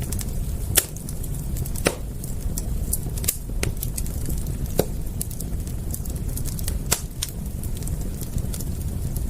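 Wood fire crackling, with irregular sharp pops, the loudest about a second in, near two seconds, near five seconds and near seven seconds, over a steady low rumble.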